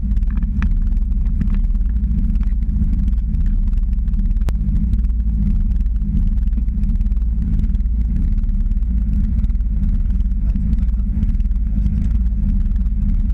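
Mitsubishi Lancer Evolution VI rally car's turbocharged four-cylinder engine idling steadily while the car stands still, a deep even rumble heard from inside the cabin. A single faint click comes about four and a half seconds in.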